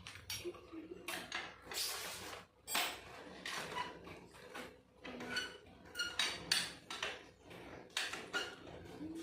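Irregular metallic clinks and clanks, a dozen or so sharp knocks, many with a short ring: tools and metal exhaust parts being handled while a racing exhaust is fitted to a motorcycle.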